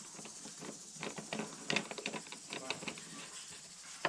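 Light, irregular clicks and taps of parts being handled and fitted, several a second, with one sharper knock near the end.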